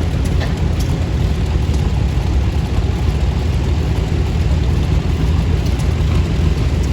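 Antique farm tractor engines running as the tractors drive past in a parade, a steady low rumble.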